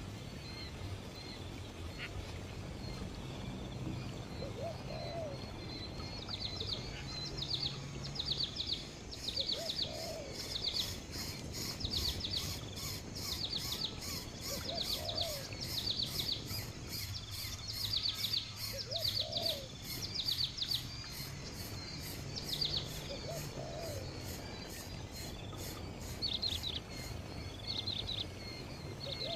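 Birds calling: a short, low hooting note repeated every few seconds, with clusters of high, quickly falling chirps in between. A fast, even high-pitched ticking runs under the chirps through the middle of the stretch.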